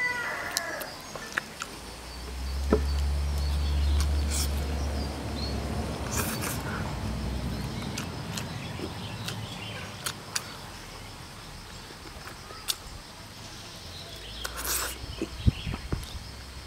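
A rooster's crow ends within the first second, then chewing and lip-smacking from eating a chicken drumstick, with scattered small clicks over a steady high insect buzz. A low rumble fills a stretch from about two to six seconds in.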